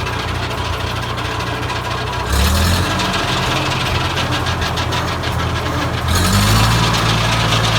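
Antique tractor engine driving a Foley Belsaw M-14 circle sawmill with a free-spinning 48-inch blade, the throttle opened in two steps, about two seconds in and again about six seconds in, each time running louder and higher. The revs are raised to see whether more blade speed steadies a wobbling new blade.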